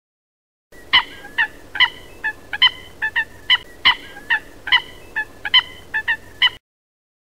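A bird, fowl-like, giving a string of about fifteen short, sharp calls, two to three a second, starting about a second in and stopping abruptly before the end.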